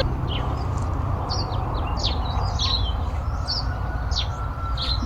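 Small birds chirping: many short, high calls that fall in pitch, repeated every half second or so, over a steady low background hiss.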